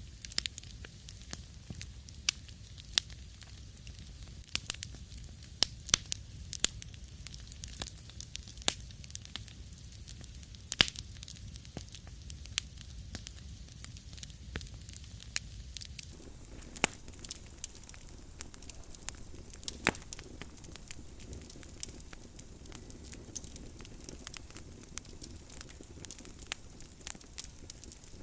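Wood fire crackling in a fireplace: irregular sharp pops and snaps over a steady low rumble. About sixteen seconds in, the background hiss shifts slightly.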